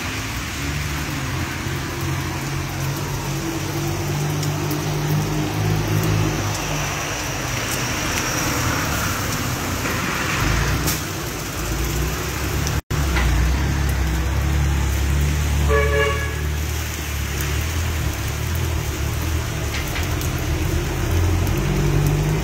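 Heavy rain falling steadily on a street, with the low rumble of vehicle engines underneath. A short car horn sounds about two-thirds of the way through.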